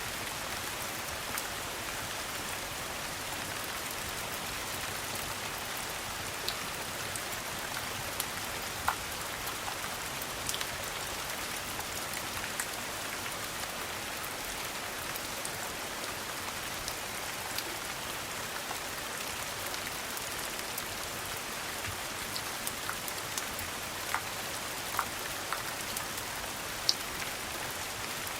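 Steady rain pattering, with scattered sharp ticks through it.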